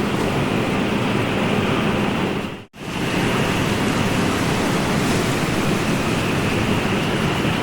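Steady rushing noise of ocean surf. About two and a half seconds in it cuts out for a split second and returns at once, like a splice or loop point in the recording.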